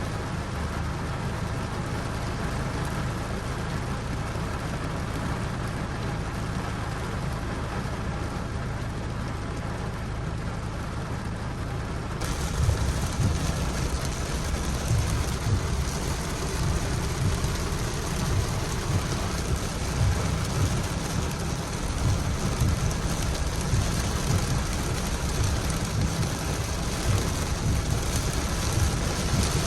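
Steady rain hiss over a constant low hum. About twelve seconds in it switches abruptly to louder, fuller rain with uneven low rumbling.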